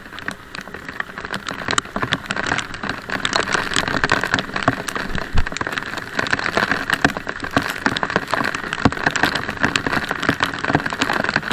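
Rain falling, a dense crackle of raindrop impacts close to the microphone.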